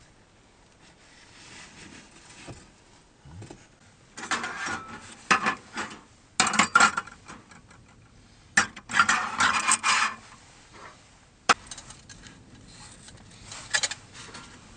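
Camping gear being handled and packed: several bursts of scraping and rubbing with clattering in the middle, and a couple of sharp knocks.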